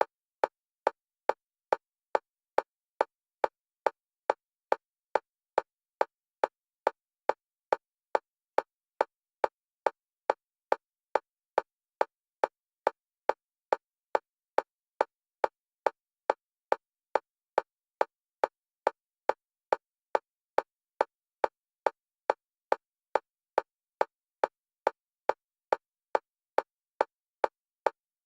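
Metronome clicks for EMDR bilateral stimulation, one pitch, alternating between left and right, at a steady fast rate of a little over two clicks a second.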